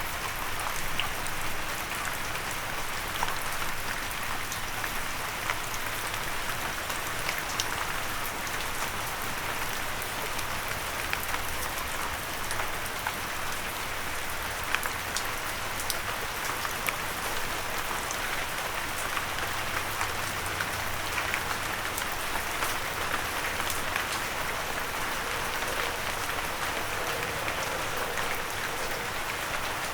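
Steady rain falling, with many individual drops pattering and ticking on a windowsill.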